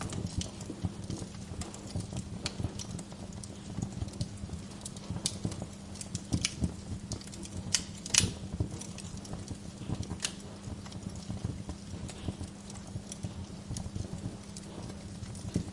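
Wood fire burning in a fireplace, logs crackling and popping irregularly over a steady low rumble of the flames, with one louder pop about eight seconds in.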